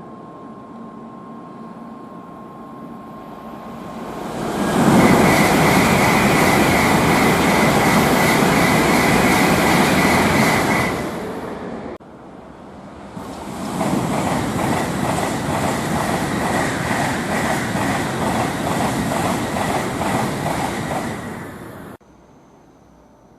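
Tokaido Shinkansen bullet trains running through the station at high speed without stopping, twice in a row. Each pass is a loud rush of air and wheel noise with a steady high whine, lasting several seconds. The second pass carries a rapid rhythmic clatter of wheels over the rail joints.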